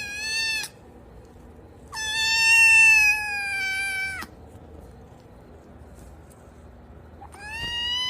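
A domestic cat giving long, drawn-out meows that hold nearly one pitch. One call ends just after the start, a longer one comes about two seconds in, and another begins near the end.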